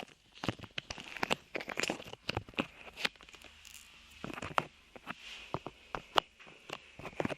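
Sticky light clay worked close to the microphone, making irregular sticky crackles and clicks of uneven loudness, with a quieter stretch near the middle.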